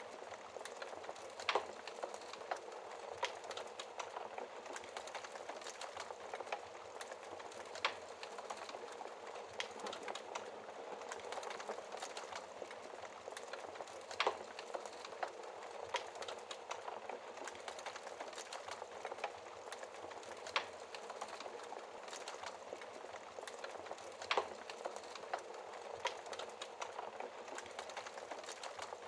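Wood fire burning in a fireplace: a steady low hiss and rustle of flames with continual small crackles and a sharp pop every few seconds.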